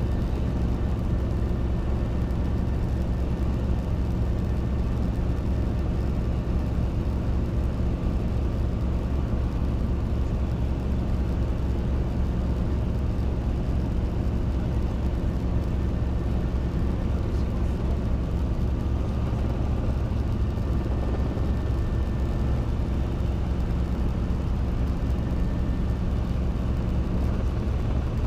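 Robinson R22 helicopter's engine and rotor running with a steady, unchanging drone.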